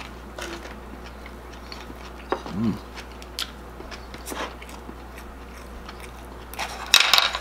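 Close-up mouth sounds of chewing crispy deep-fried pork intestine (chicharon bulaklak): scattered crisp crackles and crunches, a short hummed 'mm' about two and a half seconds in, and a louder crunchy burst near the end.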